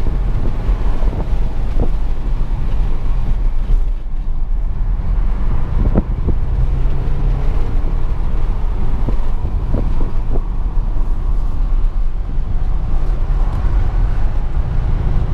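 Audi RS7's twin-turbo V8 and the road and wind noise under way, heard from inside the cabin, running steadily with a brief dip about four seconds in.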